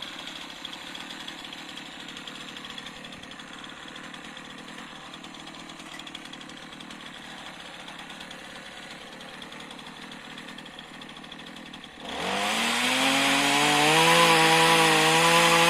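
A light Chinese-made chainsaw idles quietly. About twelve seconds in it is suddenly throttled up, its pitch rising and then holding high and wavering as it saws into a branch.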